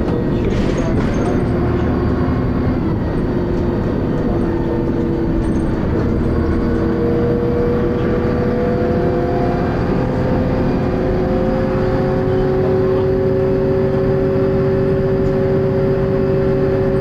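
Dennis Arrow double-decker bus with a ZF automatic gearbox, heard from inside while under way: a steady engine and drivetrain rumble, with a whine that rises slowly in pitch from about six seconds in as the bus picks up speed. Light rattles sound near the start.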